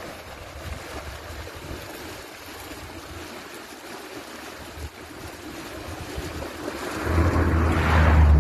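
Steady rush of flowing water with wind on the microphone. About seven seconds in, a louder low hum with a steady pitch rises in and peaks near the end.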